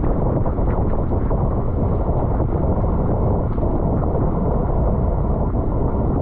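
Steady wind buffeting on the microphone of a camera riding along with a bicycle at race speed: a loud, dense rumble with no speech.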